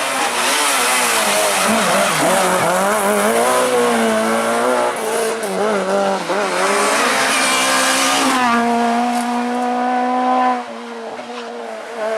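Rally car engine at full throttle, its note rising and falling sharply through gearshifts, with tyre and skid noise over it. About eight seconds in the engine holds a steady note, then drops away sharply near the end.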